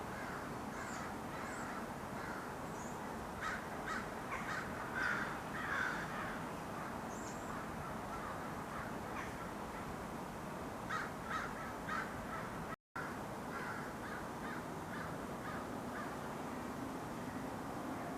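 Crows cawing in two bouts of harsh, repeated calls, the first about a quarter of the way in and the second about two-thirds through, over a steady outdoor hiss. The sound cuts out for an instant just after the second bout.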